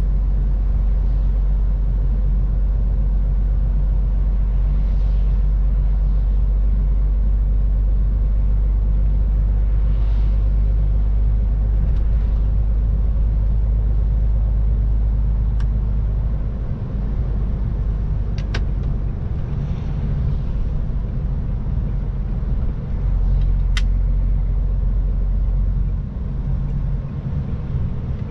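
MAN TGX 18.510 semi-truck's diesel engine and road noise while driving: a steady low drone that eases slightly about two-thirds of the way through, with a few isolated sharp clicks.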